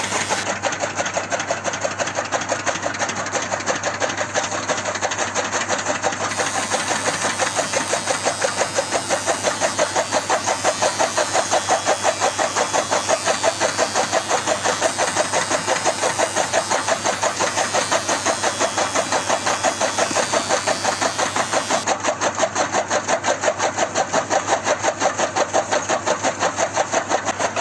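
A small machine running steadily with a fast, even pulsing of about four to five beats a second.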